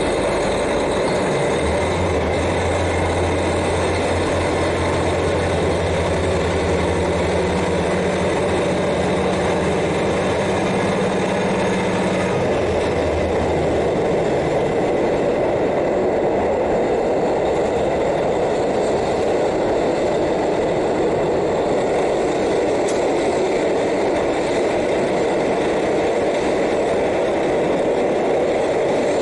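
KiHa 40 diesel railcar's N-DMF13HZI engine heard from directly above it, running steadily as the car travels on the rails. A deep low hum sits under the engine from about two seconds in and stops about halfway through.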